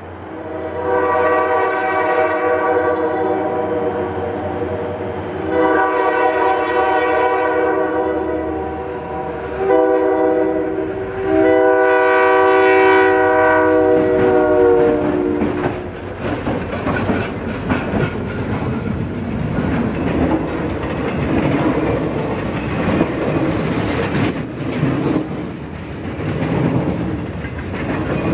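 Diesel freight locomotive blowing its horn for a level crossing in the long-long-short-long pattern, the last long blast dropping in pitch as the locomotive passes. Then the freight cars roll by, with the wheels clattering steadily over the rails.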